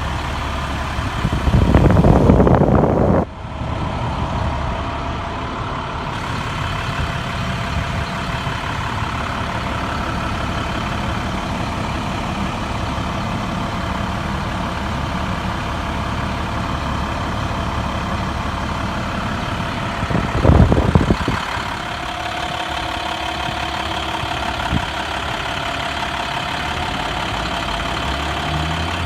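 International 4400 dump truck's DT diesel engine idling steadily, with two louder rushing bursts of noise, a long one about two seconds in and a shorter one about twenty seconds in.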